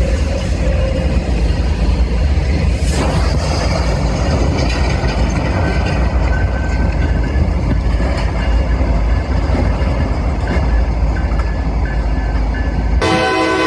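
A train running close by: a heavy, steady rumble with scattered clanks from the cars. Near the end the sound cuts suddenly to a train horn blowing a chord.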